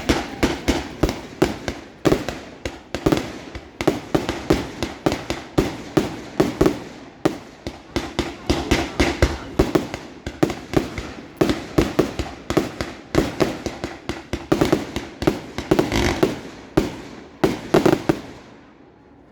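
Fireworks display: a continuous barrage of bangs and crackles, several a second, which thins out and dies down just before the end.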